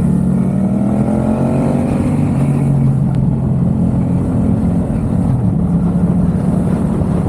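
Yamaha XSR700's 689 cc parallel-twin running through a MiVV aftermarket exhaust while riding: the engine revs rise over the first couple of seconds, then it runs on steadily, easing off around five seconds in.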